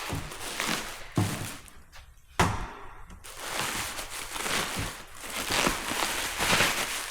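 Bubble wrap and packing paper rustling and crinkling as a part is unwrapped, with two sharp knocks about one and two and a half seconds in.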